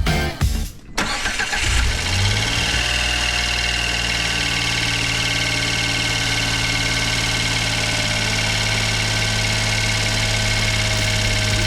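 Suzuki Every's R06A three-cylinder engine, running on freshly fitted iridium spark plugs, cranks and catches about a second in. It rises briefly, then settles into a steady idle.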